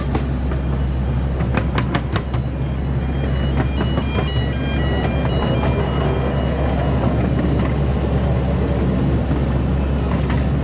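Small park ride train running along its track: a steady low mechanical hum, with wheels clicking over rail joints in the first couple of seconds. A short run of high tinkling notes plays about three to five seconds in.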